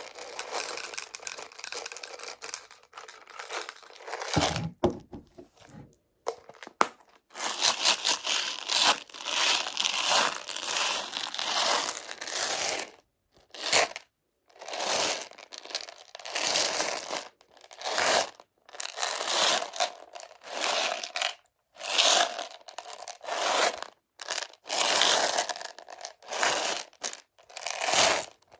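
Choco Baby chocolate candies and their plastic container handled close to the microphone for ASMR. Repeated rough, scraping strokes, each about a second long, come with short pauses between them.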